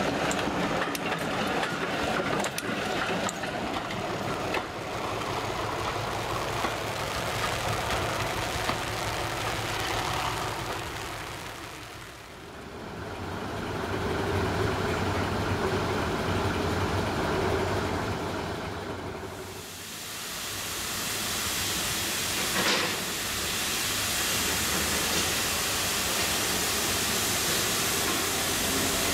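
Passenger coaches rolling past, wheels clicking over the rail joints. Then a first-generation diesel multiple unit's underfloor diesel engines idling with a steady drone, followed by the engines running louder and noisier as exhaust smoke rises from the unit, with a single sharp click a little past two-thirds of the way through.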